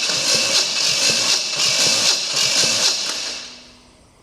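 Starter motor cranking a 327 small-block Chevy V8 with its spark plugs out for a compression test, in a steady pulsing rhythm that stops about three seconds in. The engine spins slower on this cylinder, its highest at about 160 psi.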